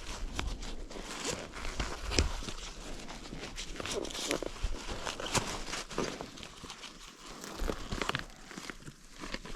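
Irregular small clicks, scrapes and rustling from hand tools, pliers and a multi-tool, being worked on a dirt bike part, with footsteps on the trail.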